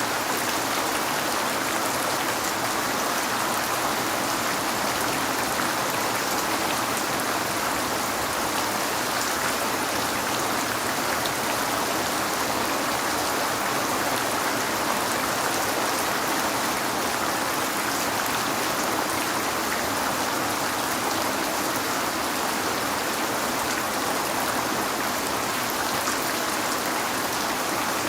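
Steady rain falling on a window: an even, constant hiss of rainfall with fine scattered drop ticks.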